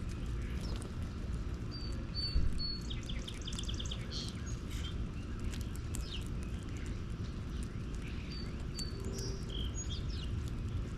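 Wild birds chirping and calling, with short high whistled notes and a quick run of repeated notes about three seconds in, over a steady low background rumble.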